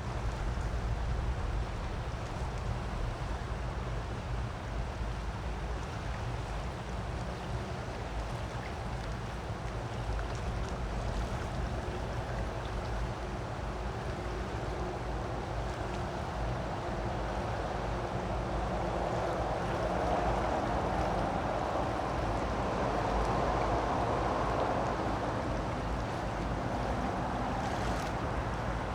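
Creek water rushing steadily over rocks, an even hiss with a low rumble underneath, growing somewhat louder about two-thirds of the way through.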